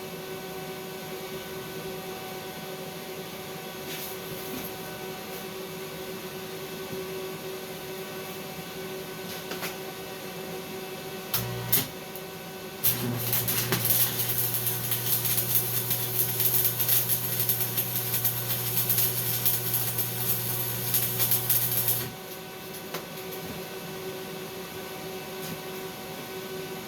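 Stick (SMAW) welding arc from a 1/8-inch 6013 electrode at 90 amps. It strikes briefly about eleven seconds in, then catches and crackles steadily over a low hum for about nine seconds before breaking off. A steady low hum runs underneath throughout.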